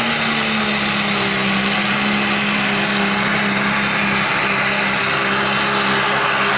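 A pulling vehicle's engine running hard at high revs, steady and loud, its pitch easing down slightly in the first couple of seconds.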